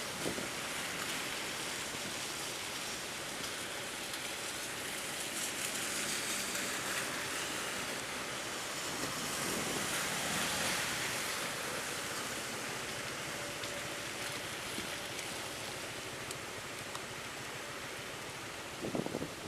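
Steady rain and wind noise picked up by an action camera's built-in microphone: a continuous, even hiss with no distinct events.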